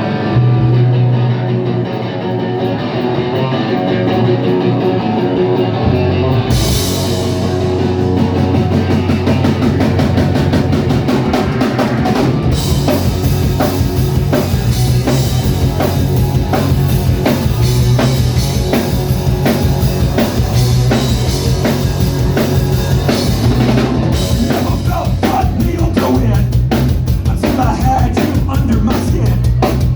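Live rock band playing a heavy song: the bass and guitars open it, a cymbal crash brings the drums in about six seconds in, and from about twelve seconds the full band plays with a steady, driving drum beat.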